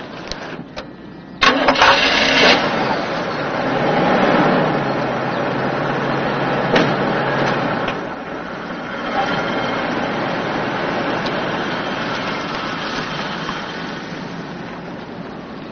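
Car engine starting with a sudden loud burst about one and a half seconds in, then running steadily, a little quieter after the middle.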